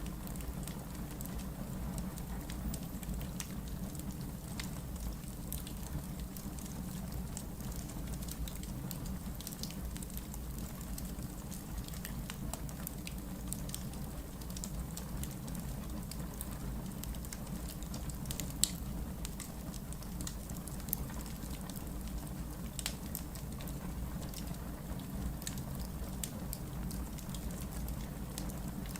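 Wood logs burning in a fireplace: a steady low rush of the flames with irregular small crackles throughout and a couple of sharper pops in the second half.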